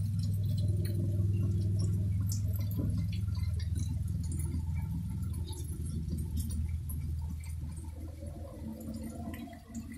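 Rain falling, with scattered drops ticking, over a steady low rumble that fades near the end.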